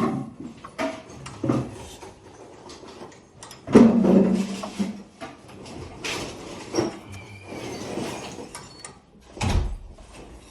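Irregular knocks and clanks from work on garage door spring hardware, the loudest about four seconds in and near the end, with a faint squeak in between.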